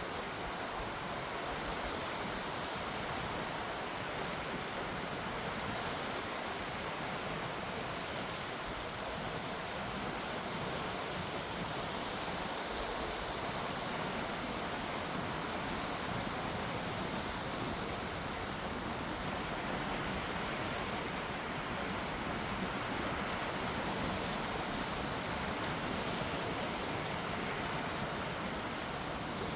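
Gentle sea waves washing: a steady, even hiss of water with no distinct breakers.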